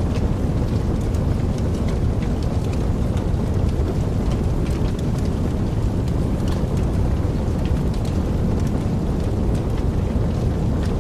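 Wood fire in a fireplace crackling: a steady low rumble of burning with frequent small sharp pops scattered irregularly throughout.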